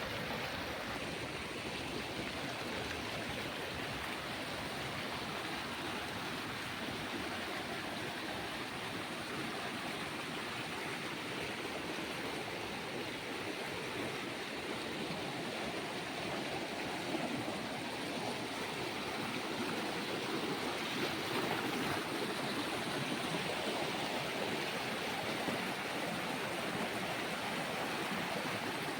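Stream water rushing steadily, a continuous even wash of flowing water.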